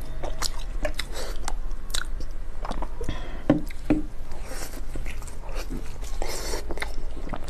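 Close-miked eating sounds of a person biting into and chewing soft braised meat: a run of short mouth clicks and smacks at an uneven pace.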